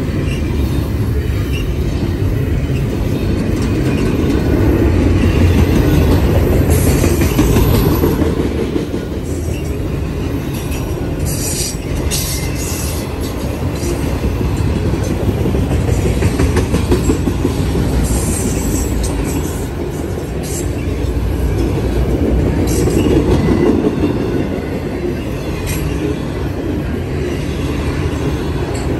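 CSX freight train cars, container well cars and autoracks, rolling past close by: a steady rumble of wheels on the rails with clickety-clack from the rail joints, and brief high-pitched wheel squeals a few times.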